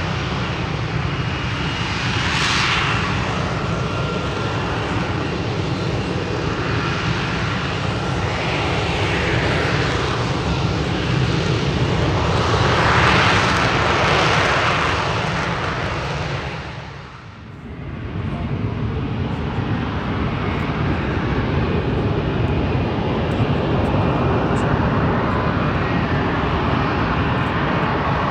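An airplane flying an air show display, its engine running continuously and swelling several times as it passes, with a brief sharp drop in level about two-thirds of the way through.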